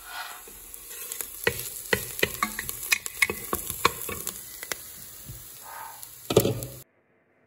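Diced onion sizzling in a stainless steel pot as a wooden spoon stirs it, with many quick clicks and scrapes of the spoon against the pot. There is a louder burst near the end, then the sound cuts off to silence.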